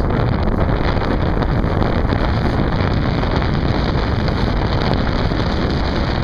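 Steady wind noise buffeting the microphone, a dense low rumble and hiss without a break.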